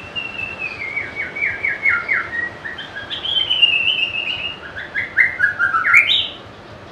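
White-rumped shama singing one long varied phrase of quick whistled notes, several stepped downward runs, ending on a few rising notes before it stops near the end.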